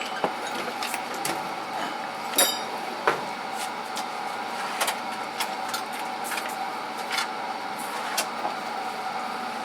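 Metal tools clinking and clattering as they are handled and set into toolbox drawers: a handful of sharp, scattered clinks, one with a brief metallic ring, over a steady background hum.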